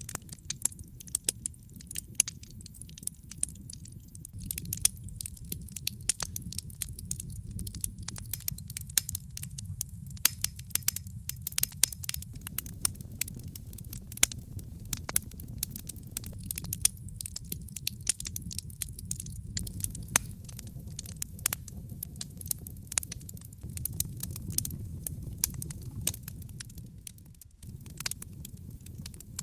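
Wood fire burning in a fireplace: a steady low rumble of flames under many sharp, irregular crackles and pops from the burning wood. The rumble dips briefly near the end.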